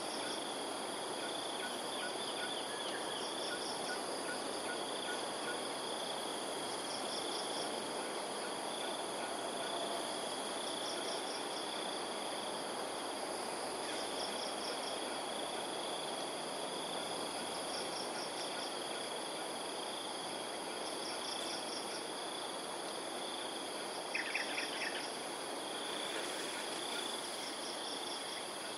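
Outdoor morning ambience of steady high insect buzzing over a constant background hiss. A short high trill repeats about every two seconds, and about 24 seconds in there is a brief, louder run of rapid chattering notes, likely a bird call.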